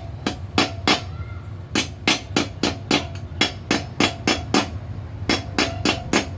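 Hand hammer striking sheet metal for a homemade jet-style muffler, about three blows a second in runs with two short pauses, each blow ringing briefly. A steady low hum runs underneath.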